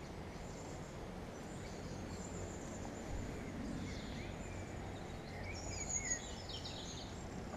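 Songbirds chirping and trilling in short, scattered phrases over a steady low rumble of traffic in the distance.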